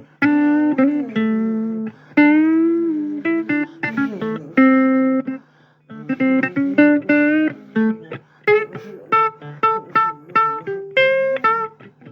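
Blues guitar playing a lead break of single plucked notes, several of them bent up and down in pitch, with a brief pause about six seconds in.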